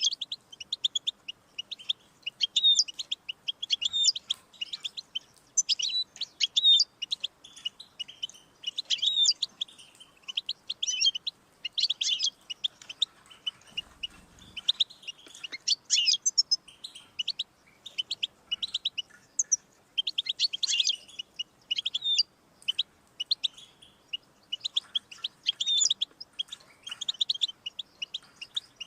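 European goldfinch singing: a long run of quick twittering chirps and trills, with short pauses between phrases.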